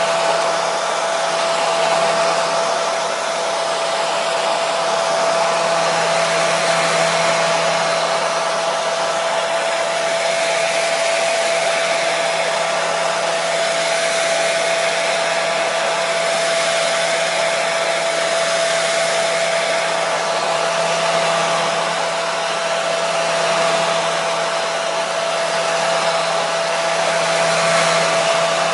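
Handheld hair dryer running steadily on one setting: an even rush of blown air with a steady motor whine, played as white noise to soothe colicky babies to sleep.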